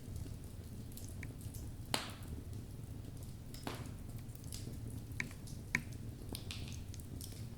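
Wood fire burning in a fireplace: a steady low rumble of the flames with scattered crackles and sharper pops from the burning logs, a few louder snaps at about two, three and a half and five and a half seconds in.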